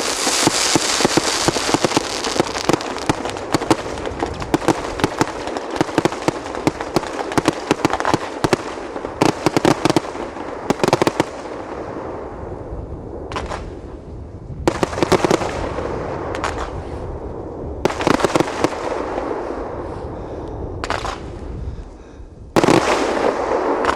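Aerial fireworks display: a dense barrage of rapid bangs over continuous crackling for about the first twelve seconds, then thinning to separate shell bursts a second or two apart, with one loud burst near the end.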